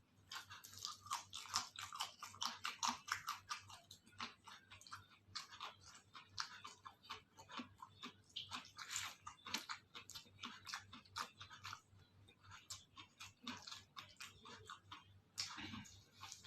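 A person chewing and biting crunchy food close to the microphone: a steady run of irregular crackling crunches, loudest in the first few seconds and again near the end.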